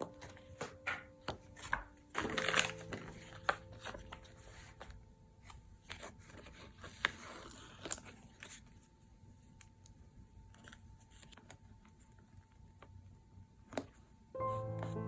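Paper being handled while journaling: soft crinkling and rustling with scattered small taps and ticks. Background music fades out in the first few seconds and starts again near the end.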